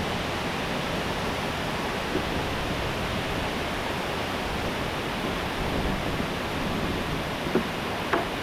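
Waterfall rushing steadily, with a couple of light knocks near the end.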